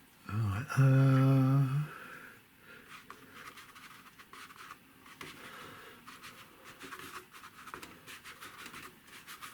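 A man hums briefly, about a second long, then faint irregular scratching of a watercolour paintbrush working paint on paper.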